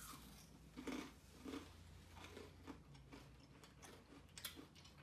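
Faint chewing with scattered small crunches: a mouthful of Cadbury Crunchie, golden honeycomb toffee in milk chocolate, being chewed, with a couple of crisper crackles near the end.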